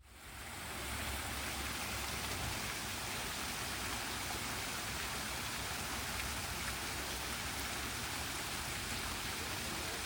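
Steady rushing water, an even hiss across the whole range, rising in over about the first second.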